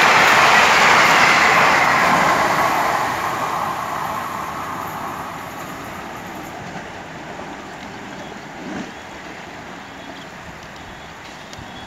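Passenger train of blue coaches rushing past at high speed, the wheels and coaches loud at first and then fading away over about five seconds as the last coaches pull off down the line.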